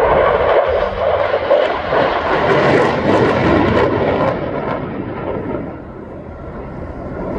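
F-35A Lightning II fighter jet flying past at an air show, its single afterburning turbofan engine giving a loud jet rush that fades about five seconds in, then starts building again near the end.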